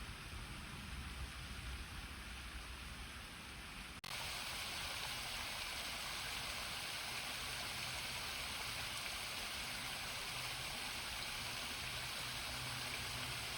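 A river running steadily with an even rush of water. About four seconds in, the sound changes abruptly to a louder, brighter rush.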